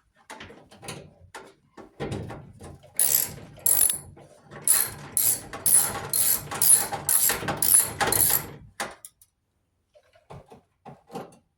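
Socket ratchet wrench on an extension working bolts out of a clothes dryer's panel. Bursts of ratcheting clicks come about twice a second for several seconds in the middle, with scattered lighter clicks and handling of the tool and metal parts before and after.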